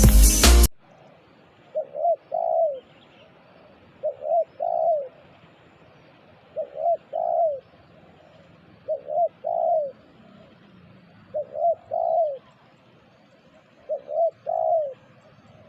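Spotted dove (terkukur) cooing: six repeated song phrases about every two and a half seconds, each two short coos followed by a longer, arched coo.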